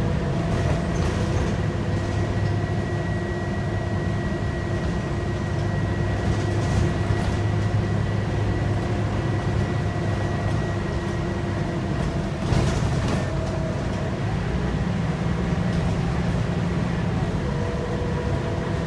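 Scania K230UB bus's 8.9-litre five-cylinder DC9 diesel engine running steadily under way, heard from inside the cabin with road noise and a steady whine. A brief rattle comes about twelve seconds in.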